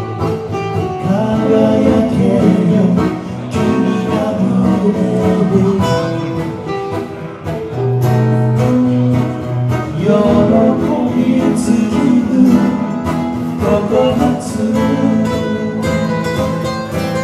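Music led by a plucked acoustic guitar, playing continuously.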